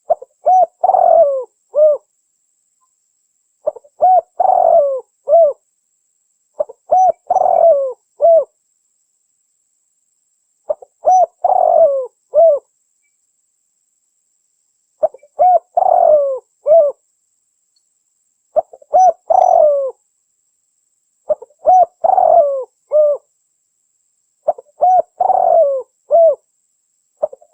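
Spotted dove (tekukur) cooing: a repeated phrase of a few short coos with one longer rolled coo in the middle, given about every three seconds, nine times.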